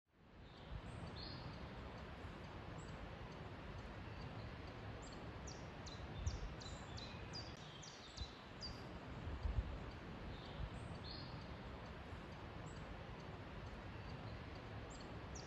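Faint woodland ambience: small birds chirping in short, high, falling notes, scattered throughout and busiest around the middle, over a low steady rumble.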